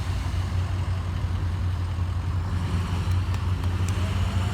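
Old cars' engines running, a steady low rumble.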